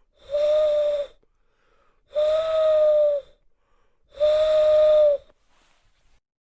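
Three steady, breathy whistle-like tones, each held for about a second at one pitch, about two seconds apart.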